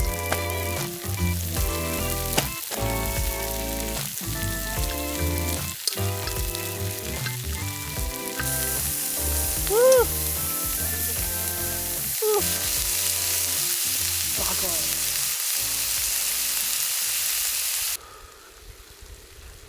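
Lamb and vegetables sizzling on a jingisukan grill pan over a campfire, with background music of held notes over a steady bass. The sizzling hiss grows much louder a little before halfway and cuts off suddenly near the end.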